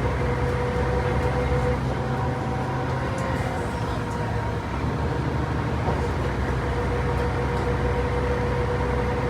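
Ride aboard a 1998 Mercedes-Benz O405 bus: its 12-litre turbocharged six-cylinder Mercedes-Benz OM447 diesel runs steadily as the bus drives along. A low drone carries a steady higher tone.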